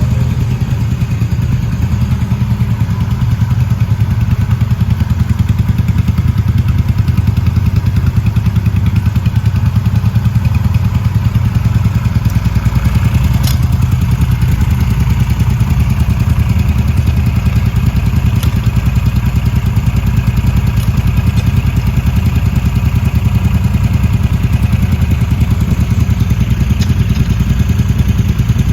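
Motorcycle engine idling steadily with an even, fast pulse, and one sharp click about halfway through.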